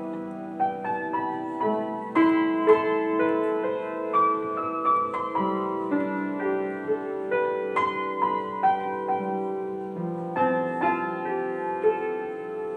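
Solo piano playing a melody of single notes over held lower chords, each note struck and left to ring.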